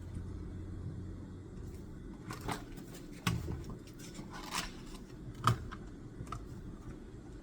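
Scattered small clicks and taps of desk work, about half a dozen, the sharpest about two-thirds of the way through, over a low steady background hum.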